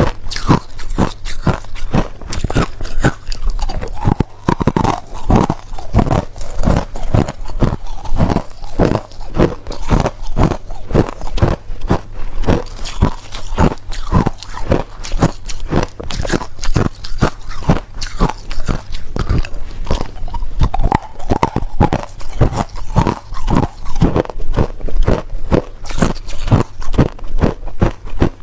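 Close-up crunching of hard ice being bitten and chewed, a rapid run of sharp crunches at about three to four a second.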